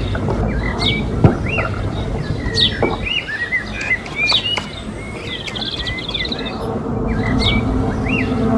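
Small birds chirping repeatedly, short arched and sweeping calls, over a steady low hum, with one sharp knock about a second in.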